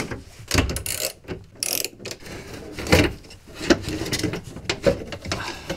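Ratchet wrench clicking in short, irregular runs, loosening the lower bolts of a car door's window regulator.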